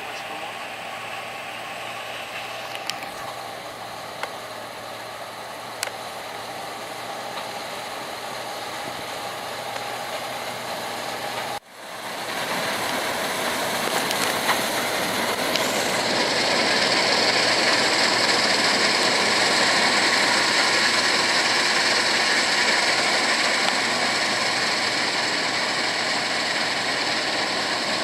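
Heavy harvest machinery running steadily, with a few light clicks early on. About twelve seconds in, the sound cuts off abruptly and comes back louder, a closer and brighter mechanical running that builds for a few seconds and then holds.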